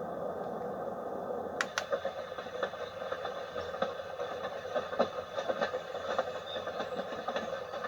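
White noise machine playing a steady hiss. About one and a half seconds in, two quick clicks are heard, and the sound changes to one with irregular crackles over the hiss, as when a button switches it to another sound.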